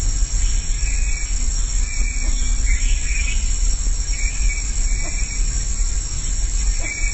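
Short chirps in small clusters, repeating about once a second, over a steady high insect drone and a constant low rumble.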